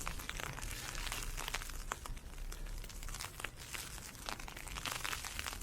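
Crunching steps through icy snow, with blowing ice pellets ticking and crackling in a dense, irregular patter, over a low wind rumble on the microphone.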